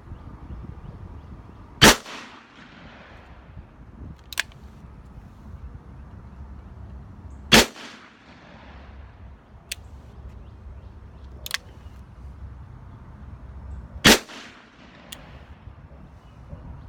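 Smith & Wesson 686 Plus .357 Magnum revolver firing Winchester 110-grain rounds, three single shots about six seconds apart, each with a short ringing tail; the rounds fire without a hitch. Fainter sharp cracks come between the shots.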